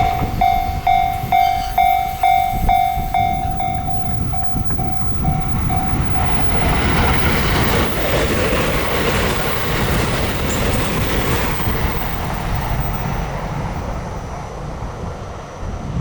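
Japanese level crossing warning bell ringing about twice a second, fading out about six seconds in, as a train approaches and passes over the crossing with its wheels clattering on the rails. The train noise builds and then tapers off near the end.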